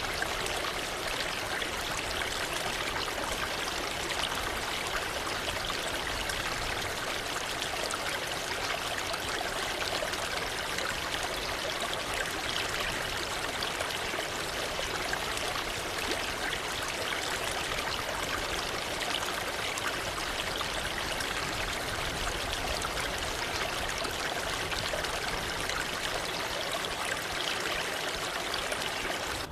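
Waterfall: falling water splashing in a steady, even rush without pauses.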